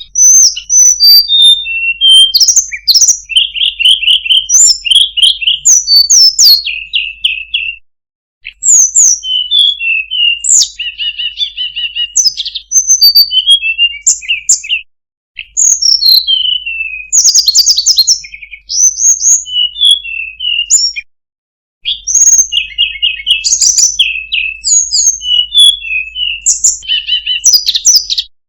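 Tledekan gunung songbird singing: quick varied phrases of high chirps, trills and downward-sliding whistles. The song comes in runs of several seconds, each cut off abruptly by brief gaps of silence.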